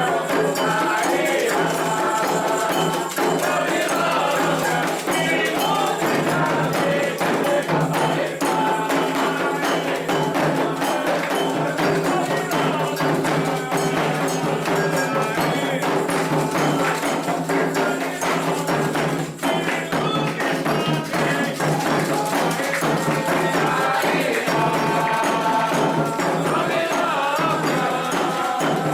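Candomblé ritual music: atabaque drums and other percussion keeping a steady rhythm under group singing, the toque played for the orixá Oxalá.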